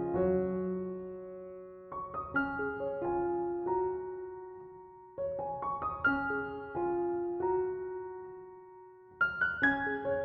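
Background piano music: gentle phrases of struck notes and chords, each left to ring and fade before the next phrase begins, about every three seconds.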